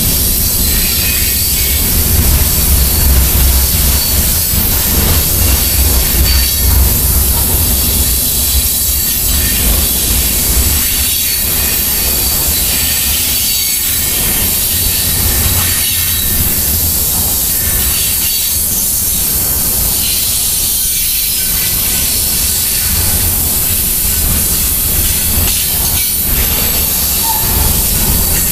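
Loaded coal train's hopper cars rolling past slowly: a steady rumble of wheels on rail with scattered irregular clanks and a faint high wheel squeal. The deep rumble is heaviest at first and eases about ten seconds in.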